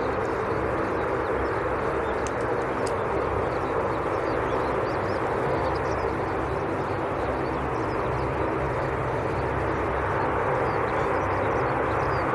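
Steady drone of aircraft engines, even in level throughout, with faint bird chirps above it.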